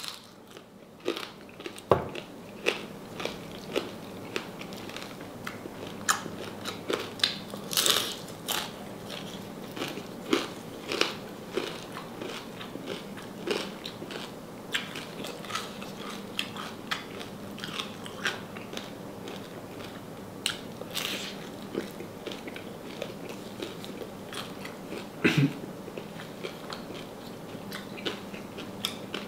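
A person biting and chewing crispy deep-fried salted pork knuckle, with many irregular sharp crunches and crackles from the fried skin.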